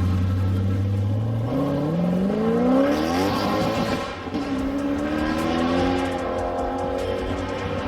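Car engine revving under hard acceleration: a steady drone, then rising in pitch about a second and a half in, dropping back near four seconds as if on a gear change, and climbing again.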